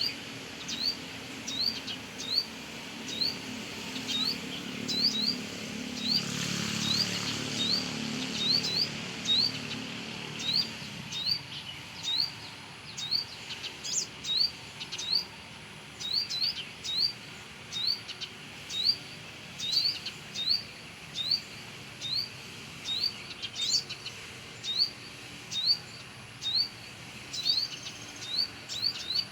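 Spiderhunter giving short, sharp rising chirps, repeated steadily a little more than once a second. A low hum rises and fades between about four and eleven seconds in.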